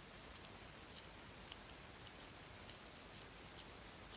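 Faint, irregular light clicks and ticks of small model gearbox parts being handled and turned, over near-silent room hiss.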